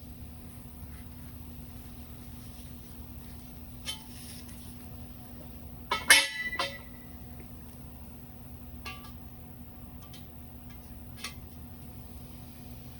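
Metal parts clinking and clanking as they are handled: a few light clicks and one louder clatter with a brief metallic ring about six seconds in, over a steady low hum.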